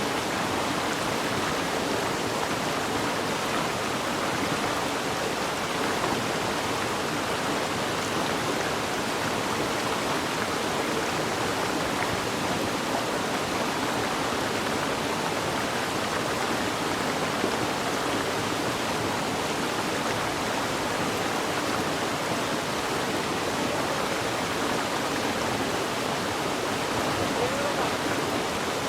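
Stream rushing steadily, an even wash of running water.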